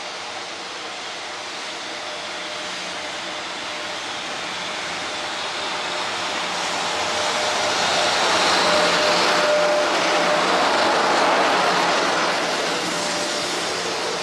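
A container freight train hauled by a JR Freight EF66 electric locomotive running past on the rails. The rumble of wheels and wagons builds over several seconds, is loudest in the middle with a faint steady whine for a couple of seconds, and eases only a little by the end as the long train keeps passing.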